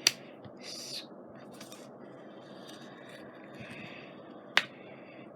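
Two sharp taps about four and a half seconds apart, with a brief papery scrape about a second in: paper and a scoring tool being handled on a scoring board.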